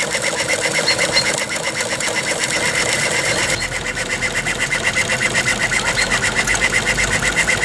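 3-inch-scale Burrell agricultural steam engine running, a rapid, even beat of exhaust and motion clatter. A low rumble joins about halfway through.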